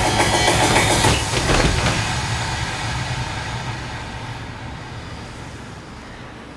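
The dance track's last beat about a second in, then a rumbling noise in the recording that fades out slowly.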